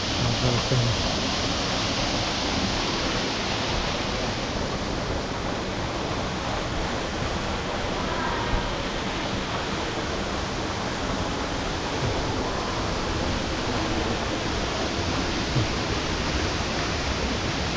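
Steady rushing of flowing hot-spring water, like a small waterfall pouring into a pool.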